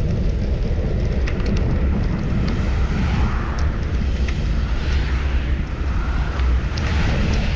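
Wind buffeting the microphone of a camera on a moving bicycle, a steady low rumble, with street and traffic noise swelling and fading a couple of times and a few light clicks.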